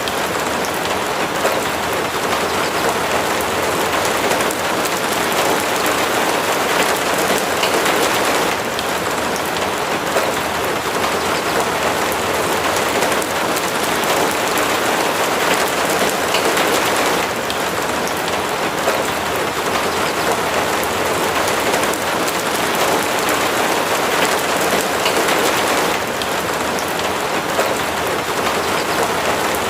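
Steady rain falling, a dense, even hiss with no let-up.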